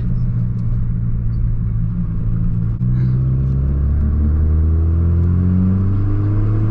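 Straight-piped 2017 Ford Focus ST's turbocharged four-cylinder heard from inside the cabin, pulling steadily, with a brief dip about three seconds in at a gear change, then its note rising as it accelerates through the next gear.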